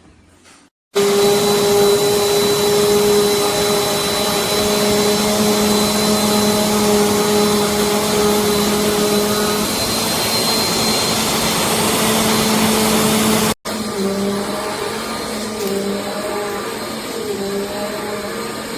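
Bissell CleanView Compact upright vacuum running with a steady motor hum. It starts abruptly about a second in, cuts out for an instant near 13.5 s, then carries on a little quieter.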